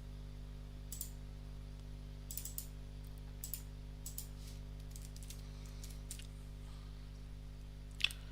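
Computer keyboard keys and mouse clicks: scattered single taps and short runs of taps, roughly a second apart, over a steady low electrical hum.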